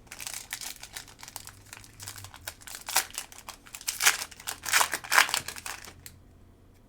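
Foil wrapper of a football trading-card pack crinkling and crackling as it is torn open and handled, in a string of quick crackles with louder bursts in the middle, then dying down near the end.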